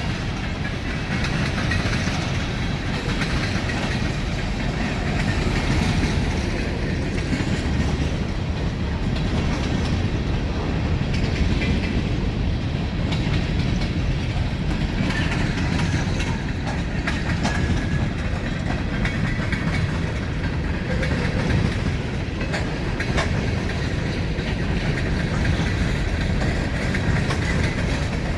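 Ride-on miniature railway train rolling along the track: a steady rumble of wheels on rail, with scattered clicks as the wheels pass over rail joints.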